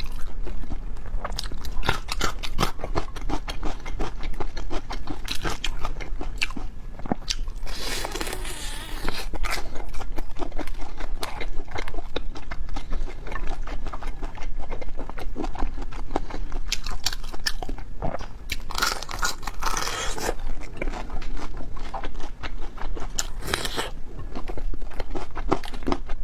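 A person biting and chewing food close to the microphone, with many small crunches and wet clicks and a few longer noisy smacking stretches.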